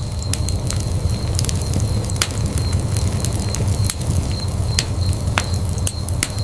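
Wood fire burning in a fireplace: a steady low rumble of flames with irregular sharp crackles and pops, several a second at random.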